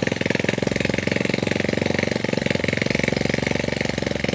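Small vehicle engine running steadily with a rapid, even beat.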